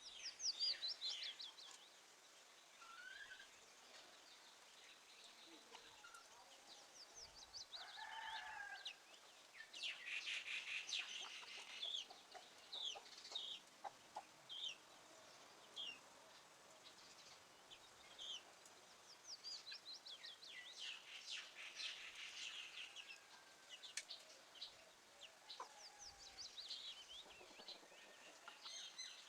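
Birds chirping and calling in quick runs of high notes, loudest just after the start and again about ten and twenty seconds in, with a lower, longer call about eight seconds in.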